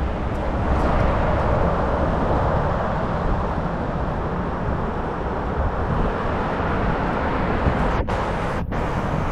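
Steady rushing noise of riding a bicycle, wind buffeting the microphone over road and traffic noise, broken by two very short dropouts near the end.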